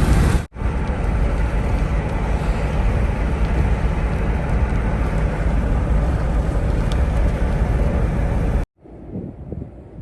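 Steady noise of a moving car and wind, heaviest in the low end. It cuts off abruptly near the end, and a much quieter stretch of uneven wind noise on the microphone follows.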